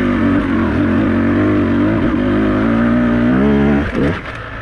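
Beta 200RR two-stroke enduro motorcycle engine running under throttle, its pitch wavering, climbing about three seconds in, then dropping as the throttle is rolled off near the end.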